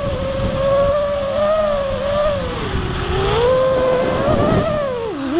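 FPV quadcopter's brushless motors whining in flight, the pitch rising and falling with the throttle and dropping sharply near the end.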